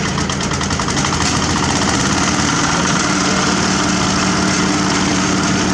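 Diesel engine of heavy road-paving machinery running steadily, with a fast even pulsing early on and a steady hum settling in about a second and a half in.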